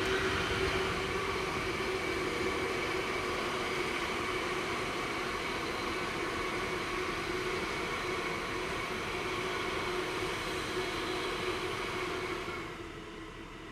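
A train running past at speed, its wheels on the rails making a steady noise with a few steady tones over it. The sound falls away quickly near the end.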